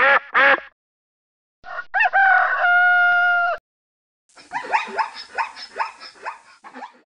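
A duck's last couple of quacks, then a rooster crowing once (a rising start held on a steady note for about two seconds), then a zebra's rapid series of short, falling barking calls, about three or four a second.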